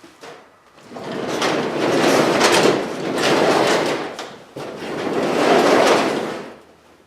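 Newly installed steel sectional garage door running up and down its tracks, the rollers rumbling along the rails in three long passes, each swelling and fading.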